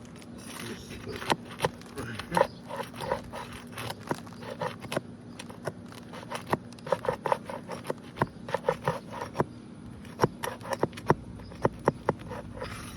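Flat pry bar worked under asphalt roof shingles to break the seal strips and loosen the roofing nails: irregular clicks, scrapes and short squeaks of steel against shingle and nail, in quick clusters.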